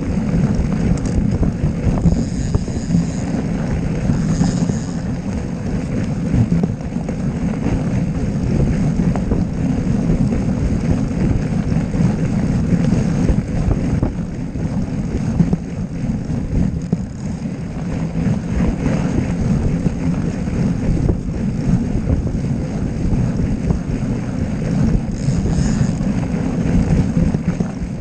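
Wind buffeting a camera's microphone: a loud, steady low rumble with no clear engine tone.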